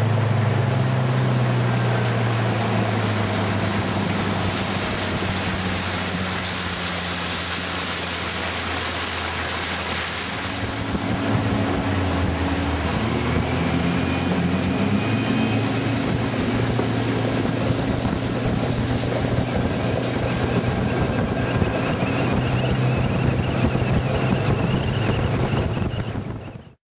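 FNM HPEP250 250 HP common-rail turbo diesel inboard driving the Sio700 motorboat underway, with rushing water and wind on the microphone. The engine note eases down over the first few seconds and shifts again about eleven seconds in, then holds steady until the sound cuts off suddenly near the end.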